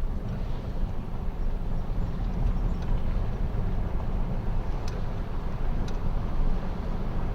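Car driving on a road: a steady low rumble of engine and tyre noise, with two faint ticks about a second apart near the middle.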